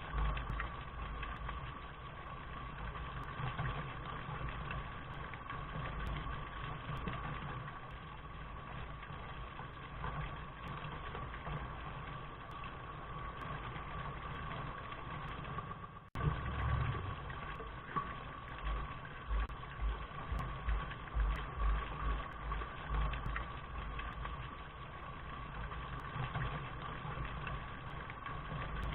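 Steady rain noise: a continuous hiss with an uneven low rumble underneath. It drops out for an instant about sixteen seconds in.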